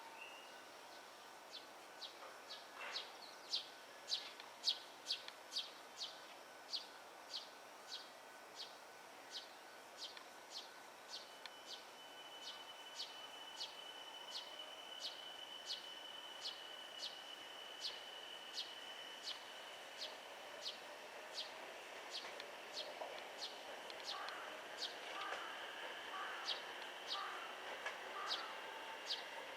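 Railway level-crossing alarm ringing steadily, about two strokes a second. A faint steady high whine joins after about twelve seconds, and short bird chirps come near the end.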